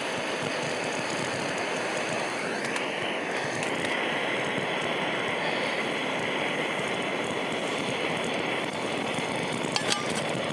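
Portable camp stove burner running with a steady hiss. A whistling tone rises about three seconds in and then holds, and there are a couple of sharp clicks near the end.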